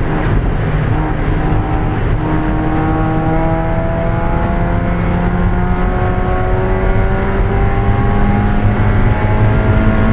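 1995 Mazda Miata's 1.8-litre four-cylinder engine racing under load, its pitch dipping about a second in and then climbing slowly and steadily through one long pull.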